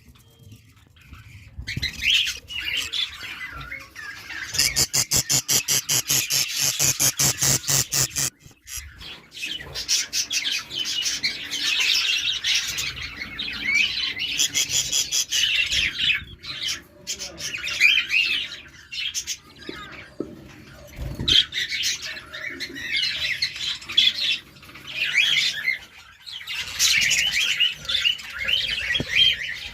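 A flock of budgerigars chattering and squawking in a warbling, continual babble. For about four seconds early on, a rapid run of sharp clicks at roughly six a second sounds over the birds.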